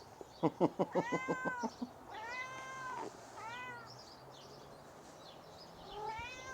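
Domestic cat meowing four times, each call rising and falling in pitch, while begging to be given something. A quick rattle of sharp taps near the start, overlapping the first meow, is the loudest sound.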